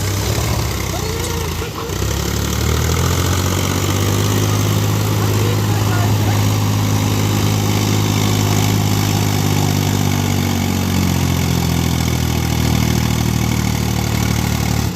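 Diesel engine revving up about two seconds in and held at higher speed, its pitch dropping slightly near the end.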